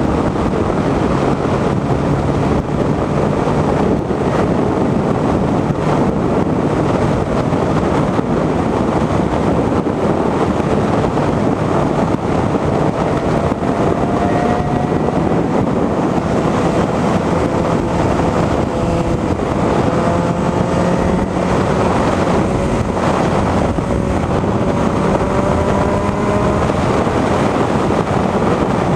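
Motorcycle riding at speed: wind rushing over the microphone almost drowns out the engine. In the second half, faint engine notes slowly rise in pitch.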